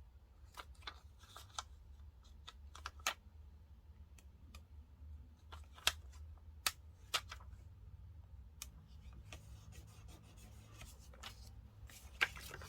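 Faint, scattered clicks, taps and short rustles of paper and stickers being handled at a desk, a dozen or so at uneven intervals, over a steady low hum.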